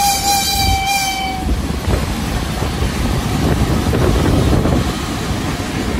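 VL15S electric freight locomotive's horn sounding one steady tone that cuts off about a second and a half in, then the locomotive and its freight wagons rumbling past close by on the rails.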